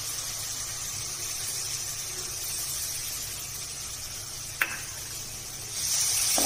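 Onion and spice masala with freshly poured curd sizzling steadily in a metal kadai, with one sharp click about two-thirds through. Near the end the sizzling grows louder as a slotted spoon starts stirring the curd in.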